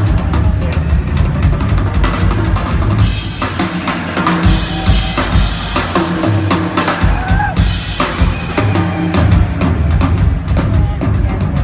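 Live drum kit solo: fast, dense fills across snare, toms and bass drum, with a wash of cymbals about three to six seconds in.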